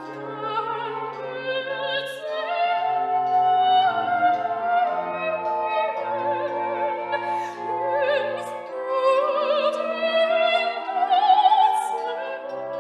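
Operatic singing with strong vibrato over orchestral accompaniment; the voice climbs higher in pitch in the second half.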